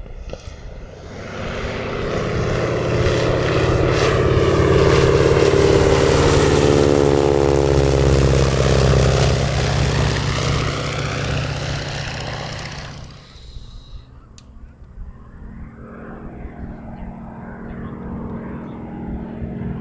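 AT-6 Texan's radial engine and propeller on a flyby: the sound swells over several seconds, drops in pitch as the plane passes, and falls away about thirteen seconds in, leaving a fainter engine drone.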